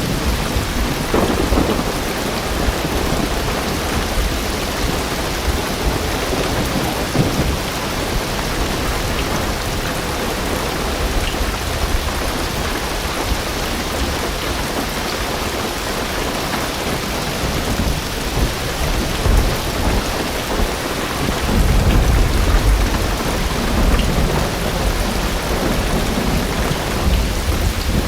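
Heavy rain drumming steadily on a car roof and windows, heard from inside the car. A low thunder rumble swells about three quarters of the way through.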